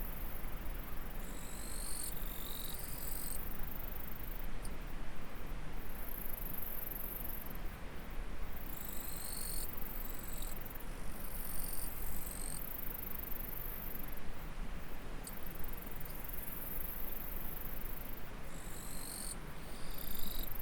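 Insects singing in very high-pitched stretches that switch on and off every second or two, over the steady rush of a flowing stream. A lower insect call sounds three times, about nine seconds apart.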